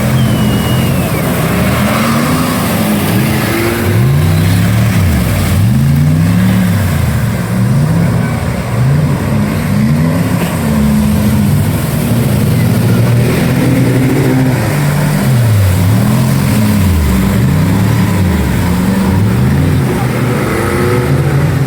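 Off-road 4x4 engine revving hard, its pitch climbing and falling again and again as the throttle is worked.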